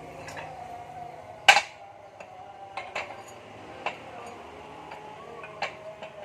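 Metal tools clanking against motorcycle engine parts: one loud, sharp clank about a second and a half in, then a handful of lighter clinks and knocks spaced roughly a second apart.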